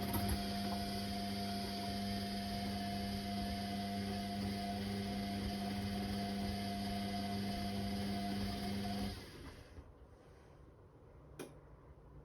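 Whirlpool Indiana 1400 washing machine's motor turning the drum in a wash tumble, a steady hum that stops about nine seconds in. A single click follows near the end.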